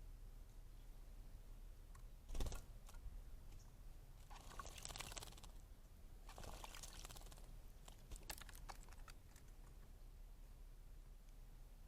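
Scrub jay in a bird bath: a sharp knock, then two short spells of faint water splashing about a second each, with a few light clicks after.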